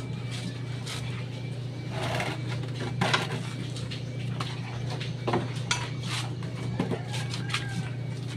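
Steady motor hum with scattered metallic clinks and short scraping sounds from work on a brake drum.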